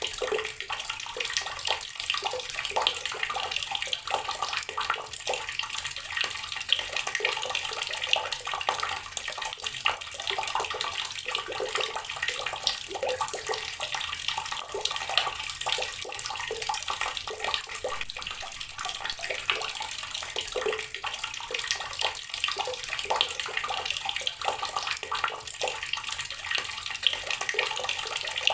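Water from a tap pouring steadily and splashing onto rocks, a continuous patter of small splashes.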